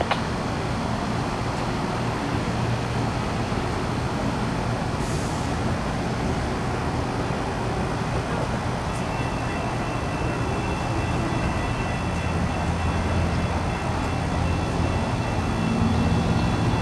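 A train running by: a steady rumble with a low engine hum, growing a little louder near the end. A thin, steady high whine comes in about halfway.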